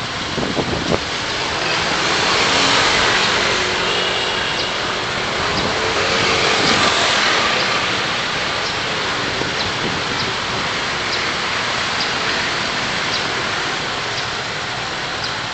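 Steady road and traffic noise of a car driving in city traffic. It swells louder twice, with a few short knocks about a second in and faint light ticks roughly once a second.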